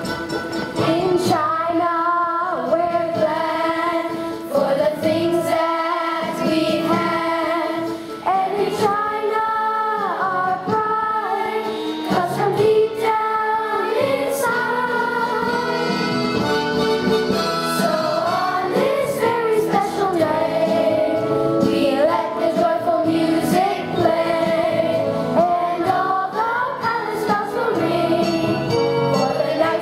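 A song: voices singing a melody over instrumental accompaniment, continuing without a break.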